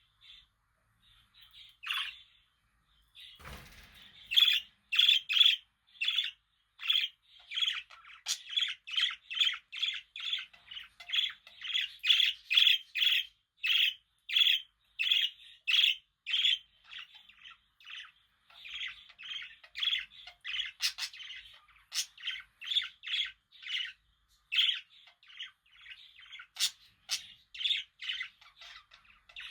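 Budgerigar chirping: a few scattered chirps, then from about four seconds in a fast, continuous run of short squawky chirps, two or three a second. A brief noise about three and a half seconds in.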